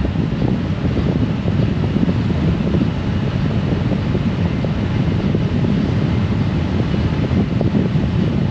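Wind buffeting the microphone on a moving Honda Gold Wing DCT motorcycle: a steady low rumble of wind and road noise that flutters without let-up.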